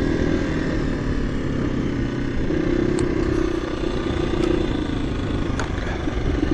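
KTM 350 EXC-F dirt bike's single-cylinder four-stroke engine running at steady low revs while riding, with a few sharp clicks partway through.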